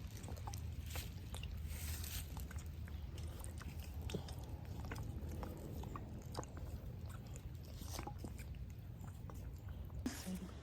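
Donkey feeding close to the microphone: a run of small, irregular crunching and smacking clicks over a steady low rumble.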